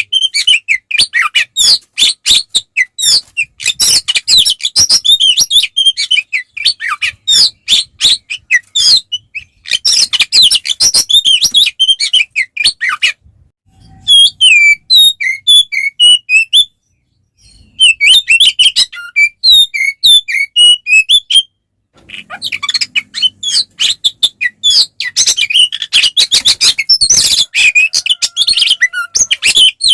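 Oriental magpie-robin in full, aggressive fighting song: a fast, loud, unbroken run of varied chirps and whistles. It breaks off briefly two or three times around the middle.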